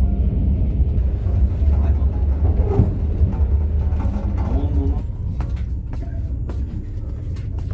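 Steady low rumble of a passenger train running, heard from inside the carriage, with faint voices in the middle and a few sharp clicks near the end.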